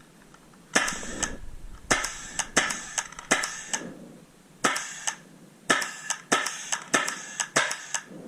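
Paintball markers firing in quick strings of two to four sharp shots, about two dozen in all, with short pauses between the strings.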